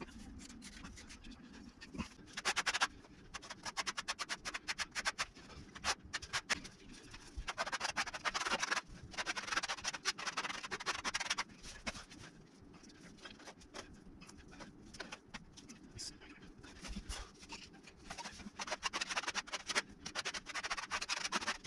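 Pencil scratching on wood while marking a line, in bursts of quick strokes separated by quieter pauses.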